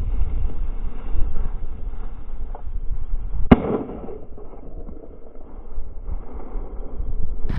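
A single shotgun shot at a flushed quail, a sharp report about three and a half seconds in that rings out briefly.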